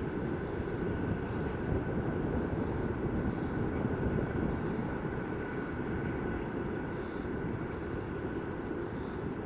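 An electric train passing on the line: a steady low rumble that eases slightly near the end.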